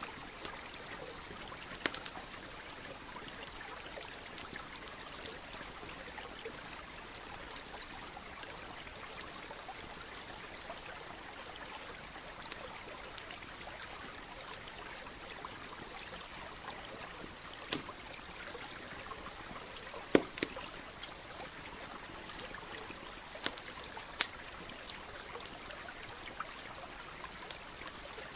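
Wood campfire crackling with scattered sharp pops over the steady rush of a flowing stream. The loudest pop comes about twenty seconds in.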